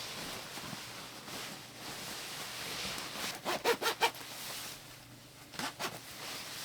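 Clothing rustling and a zip being worked, with a quick run of short, sharp rasps about three and a half seconds in and two more near the end.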